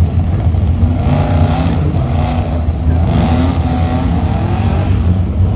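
Car engine revving hard as the car launches from a standing start and accelerates away, its pitch climbing several times from about a second in, over a steady low rumble.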